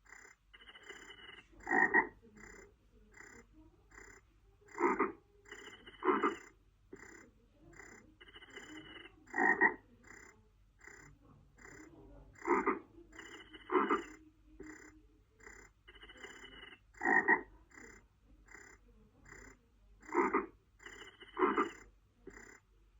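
Frogs croaking: a steady run of short croaks about twice a second, with louder croaks standing out every few seconds.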